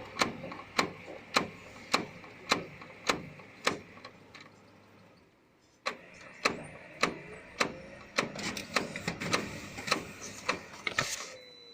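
Konica Minolta bizhub 367 copier's fuser unit clicking sharply and regularly, about every 0.6 s. The clicking stops briefly around five seconds in, then resumes less evenly. This is the abnormal noise the owner traces to the fuser.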